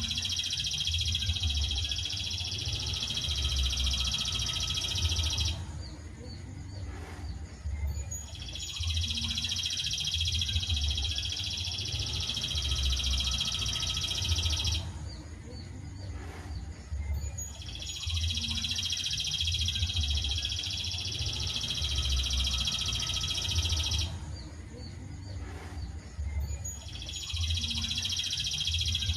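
Songbird masteran recording: a high, steady trilling song lasting about six seconds, repeated four times with short pauses between, as from a looped recording. A low hum runs underneath.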